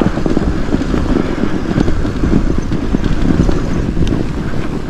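Norco Bigfoot 3 fat bike riding down a snowy trail: the fat tyres crunch through the snow under a steady rumble of wind on the microphone, full of short crackles.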